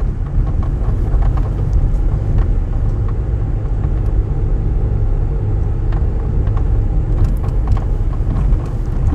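Car engine and tyre rumble heard from inside the cabin while driving slowly: a steady low rumble with scattered light ticks.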